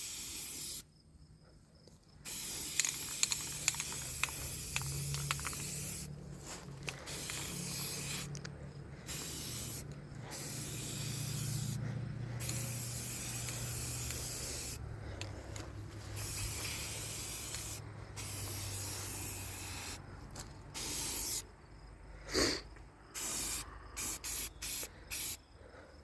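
Aerosol spray paint can hissing in long sprays with brief pauses, then several short quick bursts near the end.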